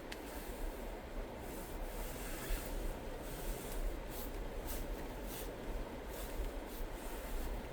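Steady road and engine rumble heard inside a car's cabin, with faint clicks scattered through it.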